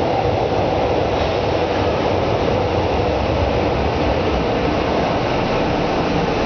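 São Paulo Metro subway train running: a steady, loud rumble that holds level throughout, with no change in pitch.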